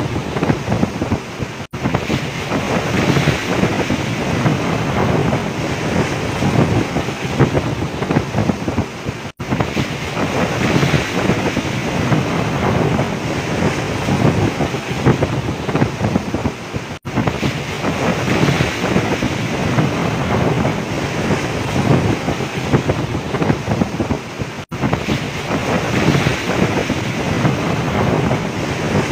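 Storm wind blowing hard across the microphone over big waves breaking around a boat at sea, a loud, steady rush. The sound cuts out for an instant four times, about every eight seconds.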